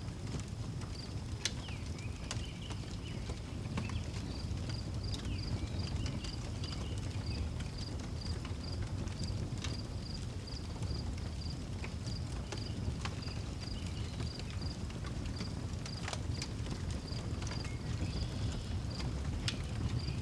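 Outdoor wood fire crackling, with scattered sharp pops over a steady low rumble. A cricket chirps evenly about twice a second throughout, and a few brief bird calls come and go.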